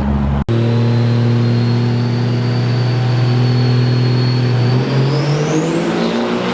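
Turbo-diesel drag truck engine held at steady high revs with a thin turbo whine over it; about five seconds in, the whine climbs steeply in pitch as the engine note shifts, as at launch.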